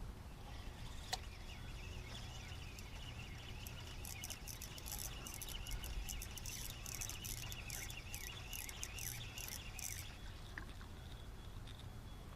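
Fishing reel being cranked to wind in line: a rapid, even clicking whir from about four seconds in, lasting about six seconds, over a steady low rumble.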